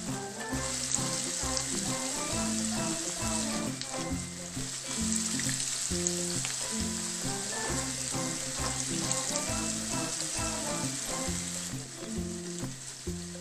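Battered squid pieces sizzling steadily in hot oil in a frying pan, over background music with a stepping melody and bass line.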